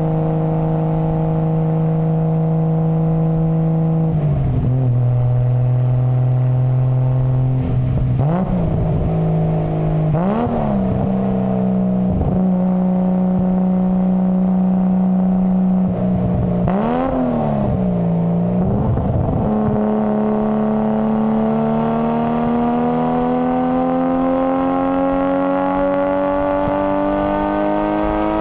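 Nissan Skyline GT-R (R33) RB26DETT twin-turbo straight-six running at steady engine speeds, with a drop in revs about four seconds in and a few short throttle blips. In the last third the engine speed climbs slowly and evenly.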